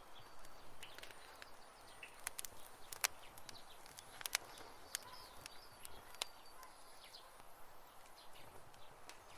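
Wood campfire crackling, with irregular sharp pops and snaps over a low hiss, two of them louder about three and four seconds in. Faint high chirps sit in the background.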